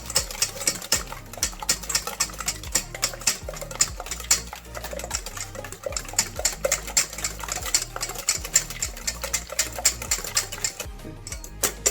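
Whisk beating eggs and sugar in a bowl, knocking against the side in quick, regular clicks, several a second, while the sugar dissolves.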